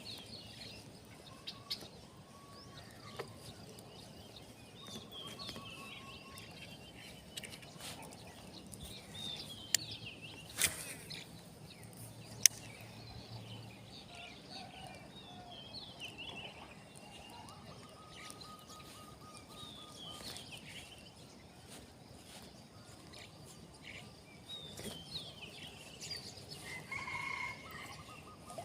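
Birds chirping on and off, repeated short calls over a faint outdoor background, with a few sharp clicks, the loudest about twelve seconds in.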